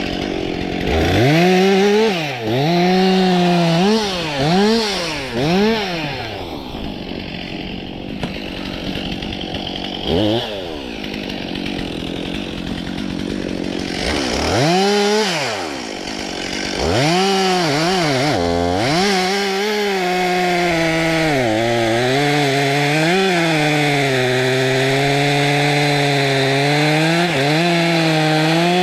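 Stihl MS 362 C two-stroke chainsaw revved up and down in quick bursts several times in the first few seconds, then run at steady high speed for the last ten seconds or so, its pitch dipping slightly now and then.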